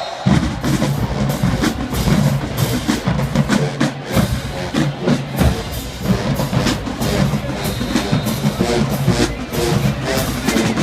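Marching band playing with heavy drumline percussion, bass drums and snares carrying a steady beat, and horn notes coming through more clearly in the second half.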